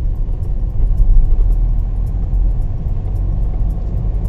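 Steady low rumble of a moving road vehicle, with faint background music.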